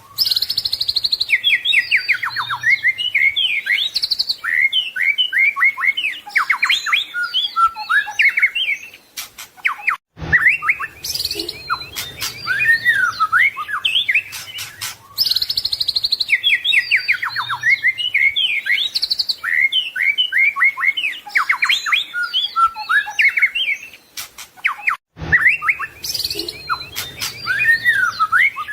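White-rumped shama (murai batu) singing a loud, fast, varied song of whistles, trills and rapid chirps, full of imitated phrases. The song breaks off briefly about ten seconds in and again near the end.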